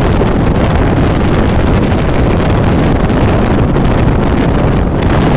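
Wind rushing over the microphone with a steady low rumble from a fast-moving train.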